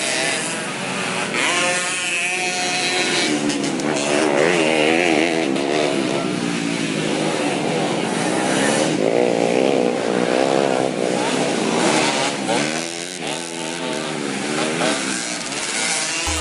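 Several racing dirt bike engines revving hard, their pitch rising and falling as the riders work the throttle through the track.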